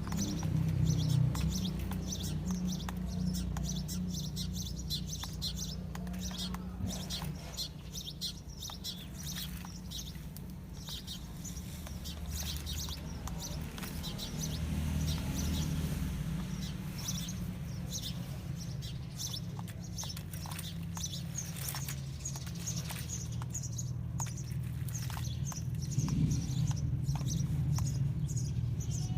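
Radio-controlled pickup truck's motor and drivetrain running with a steady, shifting hum and scattered clicks, with birds chirping in the background.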